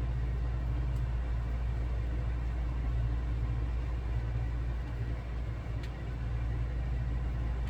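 Small air conditioning unit running with a steady low hum and fan noise.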